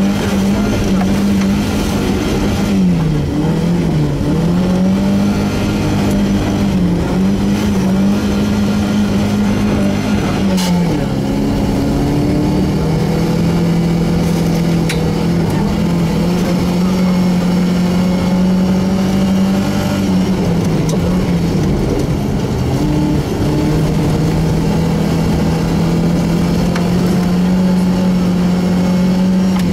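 Volvo 240 rally car's engine heard from inside the cabin, running hard at steady high revs, its pitch dipping briefly several times and settling lower for a moment just after ten seconds in. A single sharp knock comes about ten and a half seconds in.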